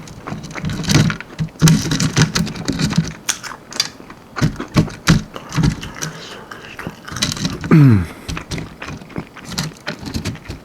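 Close-up eating sounds: a person biting into and chewing crisp almond-flour-breaded chicken wings, with many crunchy clicks and crackles, mouth smacks, and a few short low hums of enjoyment, one of them falling in pitch near the end.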